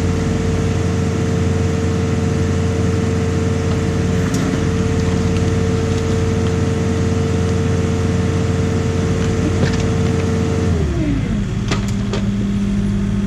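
Excavator's diesel engine running steadily at high revs, then dropping to a lower speed about eleven seconds in. A couple of clicks sound just after the drop.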